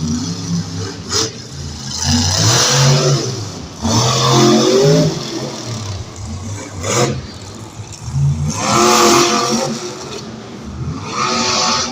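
Monster truck engine revving hard in repeated surges, its pitch climbing and falling about four times.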